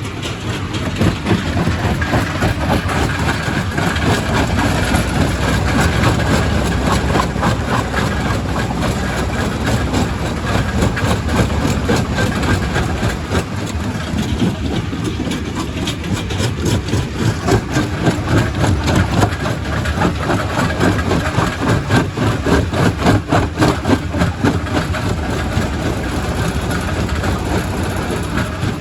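Quarry primary rock crusher running: a steady heavy engine rumble under a dense, uneven clatter of rapid knocks as stone is broken and tumbles through, the knocking thicker in the second half.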